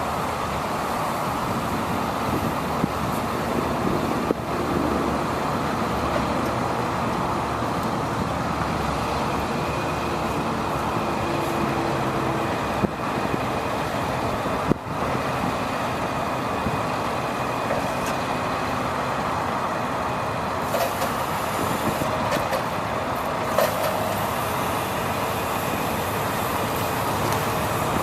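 2002 International mechanics truck running steadily, with a few light clicks.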